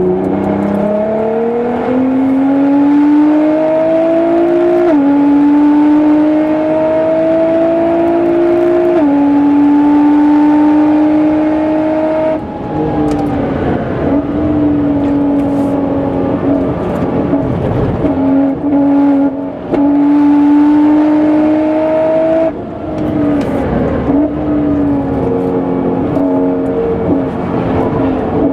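Twin-turbo V6 of a tuned Nissan GT-R R35 (about 700 hp) accelerating hard on track. Its pitch climbs through the gears, with quick upshifts about 5, 9 and 12 seconds in. It then drops back and runs unevenly for a corner before pulling and shifting up again near 22 seconds.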